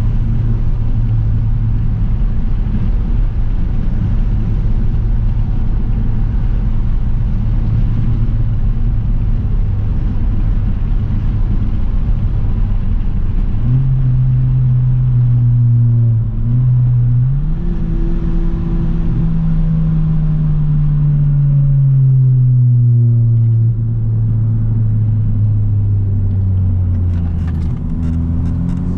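Straight-piped 10th-gen Honda Civic's turbocharged four-cylinder, its exhaust keeping the stock catted downpipe, droning steadily under way. The pitch steps up twice about halfway through, then slowly falls through the rest.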